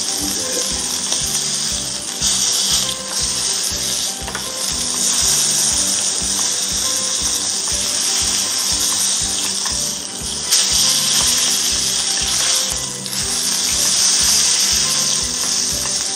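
Duck breast sizzling as it sears in a hot frying pan, the sizzle swelling and dipping while it is turned with metal tongs. Background music with a steady beat plays underneath.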